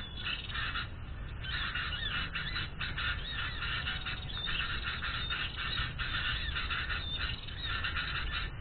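Many small birds calling at once: a dense, continuous chatter of short, overlapping chirps, over a low rumble.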